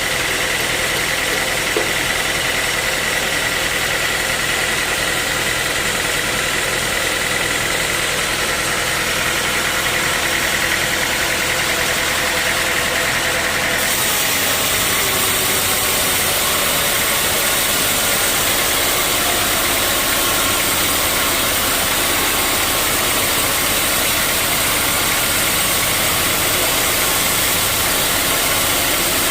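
Sawmill saw machinery running steadily, a loud even mechanical noise with a faint whine. About halfway through the sound changes abruptly, the whine moving higher.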